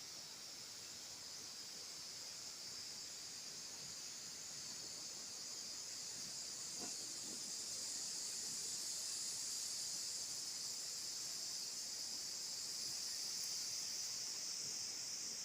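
Steady high-pitched insect chorus that grows slowly a little louder.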